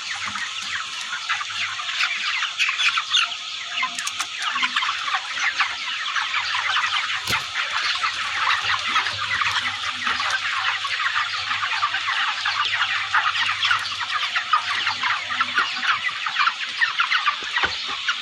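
A large flock of chickens clucking and calling all at once, a dense continuous chatter, over a faint low steady hum.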